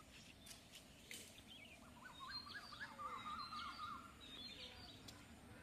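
Faint birdsong: small birds chirping, with a quick warbling run of notes from about two seconds in, over a low background hiss.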